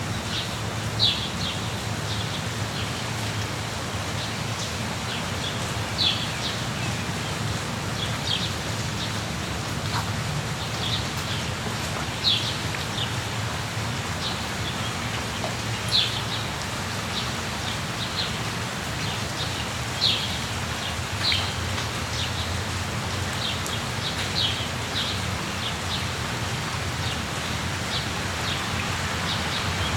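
Steady rain falling, with a bird chirping short, high, downward-sliding notes every second or two over it.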